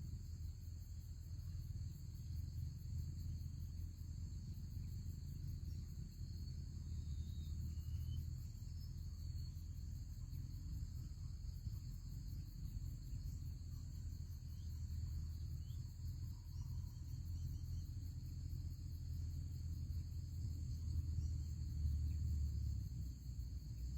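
Steady high-pitched insect chorus, like crickets, over a constant low rumble, with a few faint chirps.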